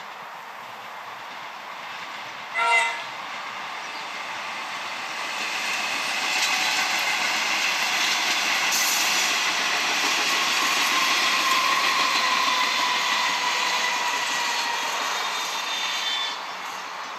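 Comeng electric multiple-unit train gives a short horn toot about three seconds in, then runs by close up. Its running noise builds over a couple of seconds and holds with a steady whine before dropping away near the end.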